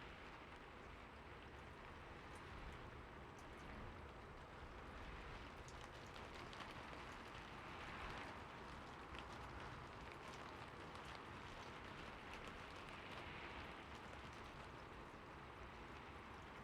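Soft, slow rain falling steadily, with scattered individual raindrops ticking through the hiss.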